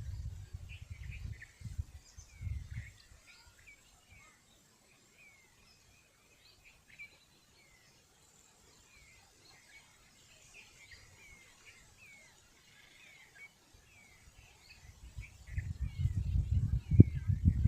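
Many small birds chirping in quick, short notes throughout. A low rumble sounds on the microphone in the first few seconds and again from near the end.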